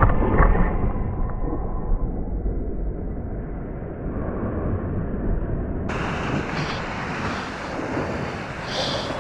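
Wind buffeting and water rush on an action camera's microphone during a surf ride: a heavy, muffled rumble with a thump near the start, turning suddenly brighter about six seconds in, with the splash and hiss of surf.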